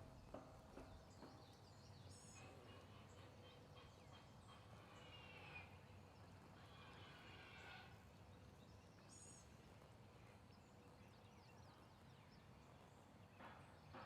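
Near silence in woodland, with faint bird calls now and then: short high chirps about two seconds in and again about nine seconds in, and fainter gliding calls between them.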